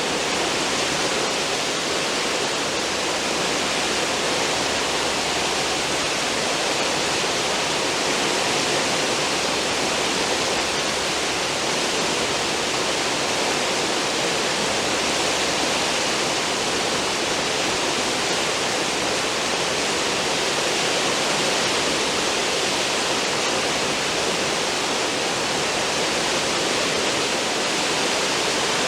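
Churning water of a cruise ship's stern wake, rushing steadily without a break.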